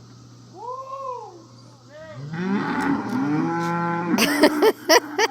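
Several cattle mooing, their long calls overlapping, after a shorter higher call about half a second in; a few sharp knocks come near the end. The mooing is taken for the herd calling for feed at feeding time.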